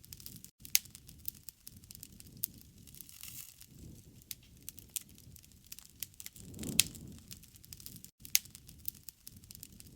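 Wood fire crackling and popping: irregular sharp pops over a low rushing of flames that swells and fades, with the loudest pops about 7 s and 8.5 s in.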